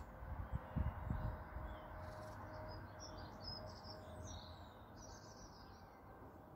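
Faint outdoor ambience with small birds chirping intermittently, mostly in the middle of the stretch, and a few low rumbles in the first second or so.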